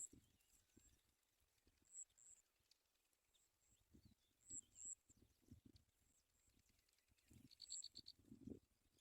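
Near silence with faint, short high-pitched bird chirps now and then and a quick trill of about five notes near the end, over soft low thumps and rustles.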